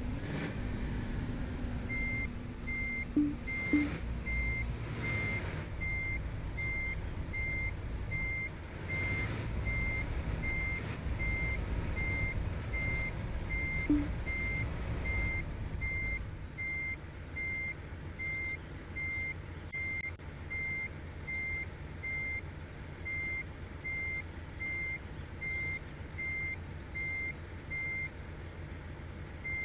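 Truck reversing alarm beeping steadily at about one beep a second, a single high tone, over the low rumble of a diesel engine. The engine is louder for the first half and drops away about halfway through; a few short sharp sounds come near the start and just before the drop.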